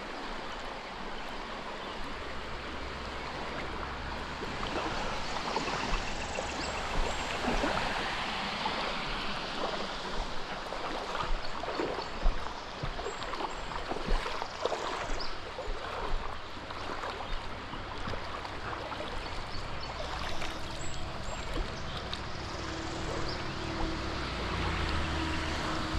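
Creek water rushing steadily, with rain spattering and scattered small clicks over it.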